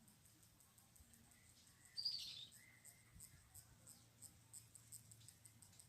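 Near silence with one short, high bird chirp about two seconds in, and faint high ticking.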